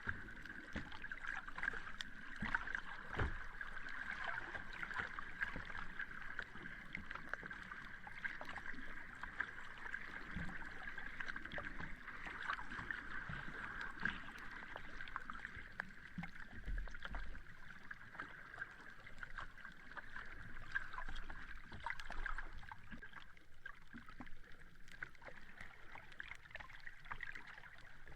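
Sea water washing and lapping at the shore, a steady hiss scattered with many small crackles and a few soft low thumps.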